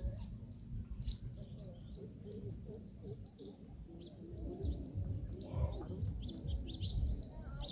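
Small birds chirping and twittering in many short, high calls over a low rumbling background.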